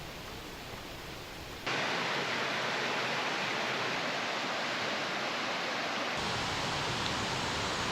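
Rushing water of a mountain stream cascade, a steady hiss. It jumps abruptly louder less than two seconds in and shifts slightly in tone a little after six seconds, as the shot changes.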